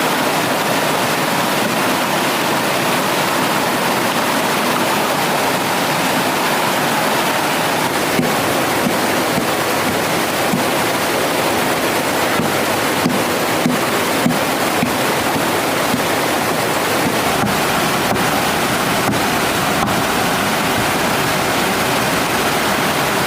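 Mountain stream water rushing steadily, with a few faint sharp clicks or knocks over it.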